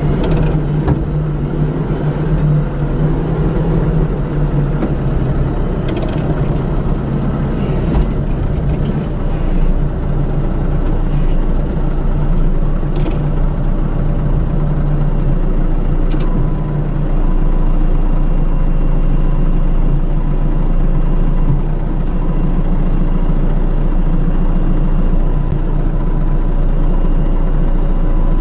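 An engine running steadily with a low hum, with a few light knocks and clicks, getting a little louder about two-thirds of the way through.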